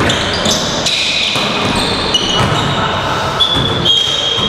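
Indoor basketball game: sneakers squeaking on a gym floor and a ball bouncing, over the echoing noise of a large hall.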